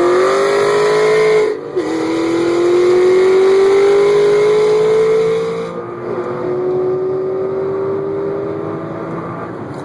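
A high-performance car's engine, heard from inside the cabin, accelerating hard at full throttle through the gears. Its pitch climbs, drops suddenly at a quick upshift about a second and a half in, climbs again, drops at a second upshift near the six-second mark, then rises slowly.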